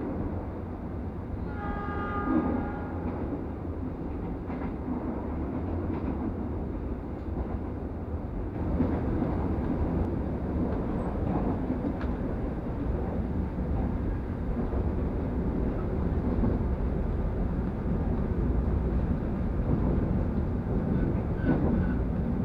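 Passenger train running, heard from inside the coach: a steady low rumble, with the train horn sounding once, briefly, about two seconds in. The running noise gets louder about eight seconds in.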